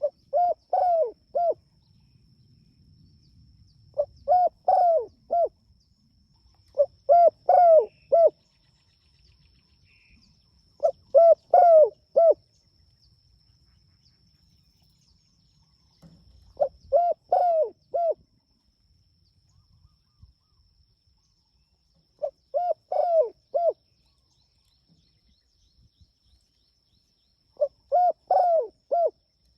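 Spotted dove calling: seven phrases of three or four coos each, repeated every few seconds.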